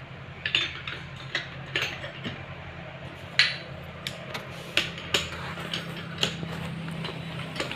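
Metal tools and motorcycle engine parts clinking and tapping during engine assembly: irregular sharp clicks, about two a second, over a steady low hum.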